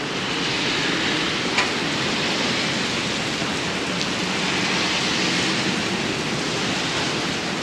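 Steady rain falling, an even hiss with a faint tick or two of drops.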